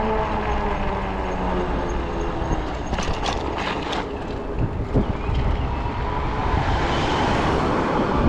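Ride noise from a fat-tire e-bike: a whine that falls in pitch at the start, then steady wind and tyre noise, with a few clicks and a knock about five seconds in. Near the end the noise swells, as traffic passes.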